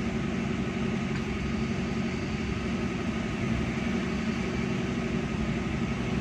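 2005 Daihatsu Zebra Espass ZSX's 1500cc carburetted engine running steadily at a throttle-held fast idle, heard from inside the cabin. It is a cold engine warming up after about a week unused, choke off, the throttle held so it does not stall.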